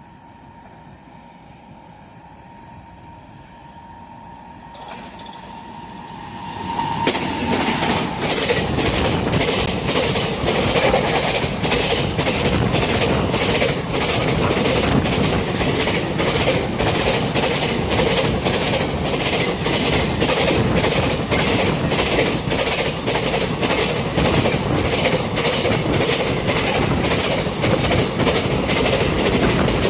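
Freight train of container wagons hauled by a WAG-9 electric locomotive passing at speed. A faint steady tone comes first as it approaches, then about seven seconds in the loud, rapid clatter of wheels over the rail joints takes over and keeps on.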